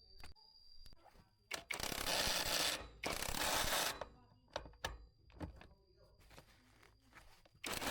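Mechanical work with scattered clicks and clacks of tools or parts, broken by two loud hissing bursts of about a second each, a couple of seconds in, and another starting near the end.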